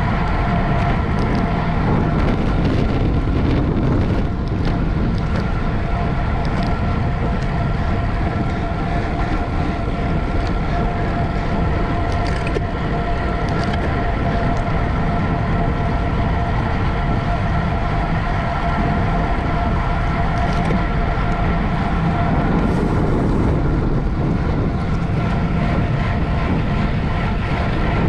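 Steady wind rush and road rumble of a bicycle ridden at race speed, with a faint steady whine above it.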